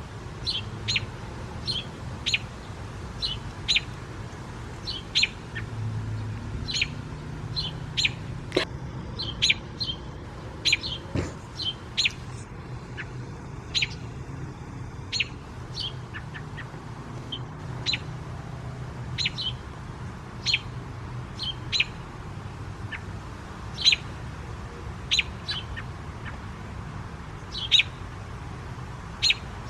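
American robin alarm calls: short, sharp call notes repeated about once a second, yelling at a cat as a predator.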